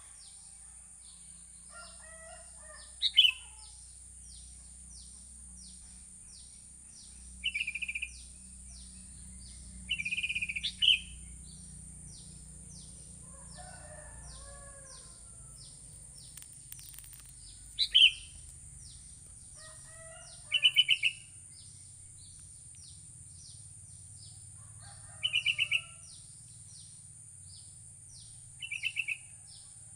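Sooty-headed bulbul (kutilang) singing: short, loud, bubbly phrases repeated every few seconds, about seven in all. Between them come fainter, lower calls from other birds, over a steady high hiss and a fast, even ticking.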